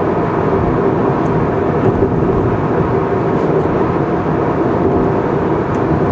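Car driving on an expressway: steady tyre and engine noise with a faint constant hum, unchanging in level.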